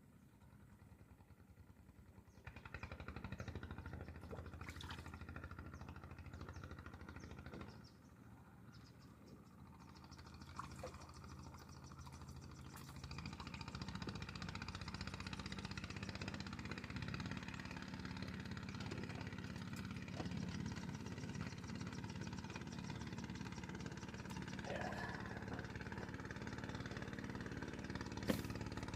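A motor engine running steadily. It comes in about two seconds in, drops back around eight seconds, then grows louder and holds. A sharp click near the end.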